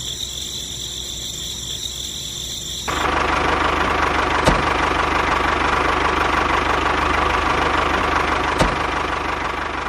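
Small motor of a homemade miniature chaff cutter running steadily with a fast fine rattle and a held whine, starting abruptly about three seconds in, with two sharp clicks. Before it, a steady high chirping like crickets.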